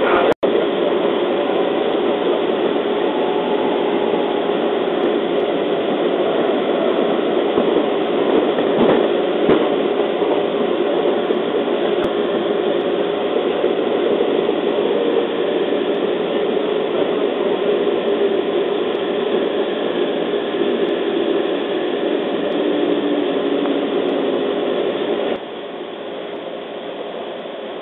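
Cabin running noise of a JR East 211 series electric train: a steady rumble of wheels on rail and traction motors. Near the end a low tone falls in pitch as the train brakes, and the noise drops suddenly as it comes to a halt at a station platform.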